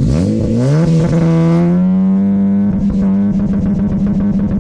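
Car engine revved hard from low, its pitch climbing for about a second, then held at high revs with a loud, steady exhaust note that flickers slightly from time to time, as when an engine is held at full revs for a decibel reading.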